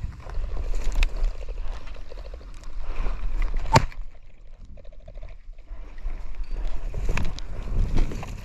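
Wind buffeting the microphone as a low rumble, with rustling and a few sharp clicks or snaps; the sharpest snap comes about four seconds in.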